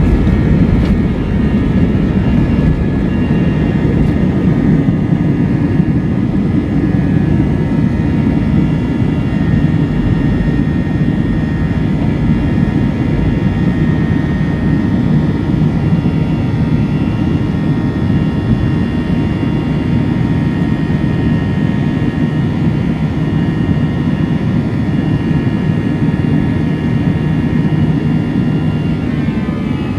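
Airbus A321's jet engines running at takeoff power: a loud, steady rumble with a set of steady whining tones above it. The tones change pitch near the end.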